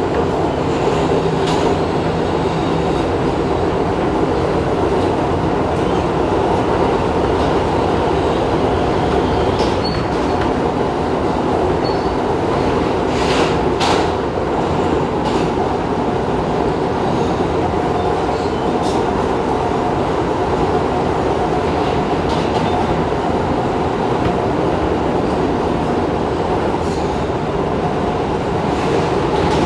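New York City subway W train car running between stations, heard from inside the car: a steady loud rumble with wheel clatter. There are a couple of short high wheel squeaks about ten and twelve seconds in, and a brief sharper clatter just after.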